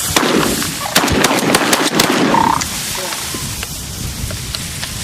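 A rapid string of shotgun shots, several in quick succession over the first two and a half seconds, fired by bird hunters at incoming birds, then a lower steady rustling background.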